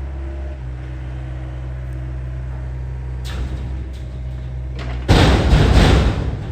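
A John Deere excavator's diesel engine running steadily, with a short rough scrape a little after three seconds and then a loud crashing, scraping noise from about five seconds in as the machine digs into the ground.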